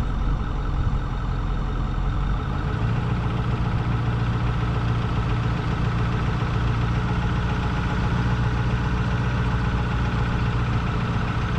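Vehicle engine running while cruising slowly, with steady road noise; the engine note shifts about three seconds in.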